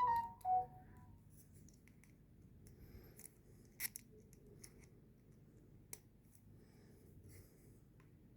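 Light handling of small 2mm screws and 3D-printed plastic wheel parts: a brief metallic tinkle in the first second, then a few faint, scattered clicks.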